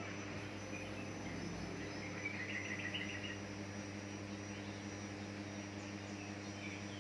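A brief, faint burst of high bird chirping about two to three seconds in, over a steady low electrical hum and hiss.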